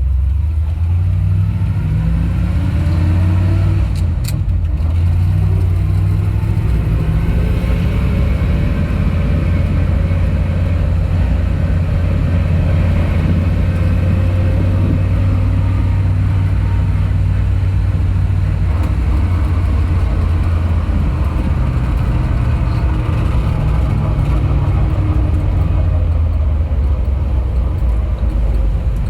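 1962 Dodge D-series truck's engine heard from inside the cab, pulling up to speed in the first few seconds and then running at a steady cruise with road and tyre noise. A single sharp click about four seconds in.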